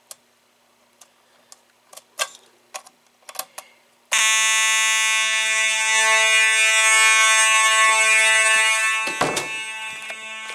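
Simplex 2901-9838 vibrating fire alarm horn, with a few faint clicks before it starts about four seconds in. It then sounds a loud, continuous buzzing tone. Near the end there is a knock and the horn gets somewhat quieter.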